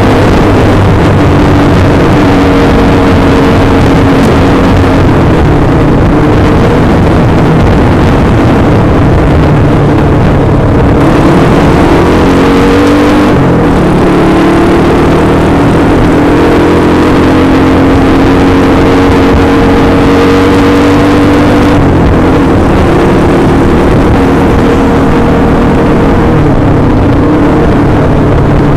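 Honda Win 100's single-cylinder four-stroke engine running hard at speed, heard from on the bike under a loud rush of wind. The engine note holds steady, except that about twelve seconds in it dips and climbs back up.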